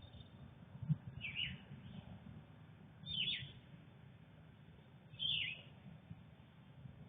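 A songbird singing nearby: a short, high, downslurring whistled note repeated three times, about two seconds apart, over a steady low rumble. A brief soft thump comes about a second in.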